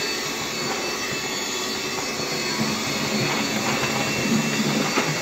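Bissell PowerGlide cordless stick vacuum running on low with the brush roll off: a steady rush of air with a faint whine, and a low fluttering hum that comes in about halfway through. Debris is clogged in its airway, which the owner takes to be why it was making a noise.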